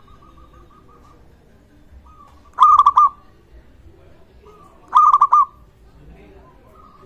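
Zebra dove (perkutut) singing: a soft, fast run of repeated notes, then two loud bursts of staccato cooing, each about half a second long and a little over two seconds apart, with the soft notes returning near the end.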